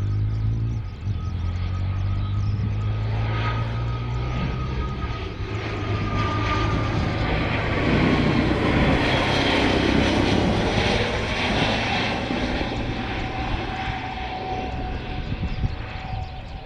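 Fixed-wing aircraft flying past: a high engine whine that slides down in pitch as it passes, with the rushing engine noise loudest about eight to twelve seconds in.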